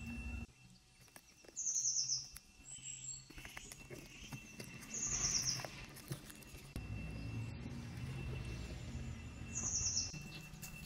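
Thermal label printer running for the first half second and stopping. Then a bird chirps four times in short, quick trills, over a faint low hum and scattered light handling clicks.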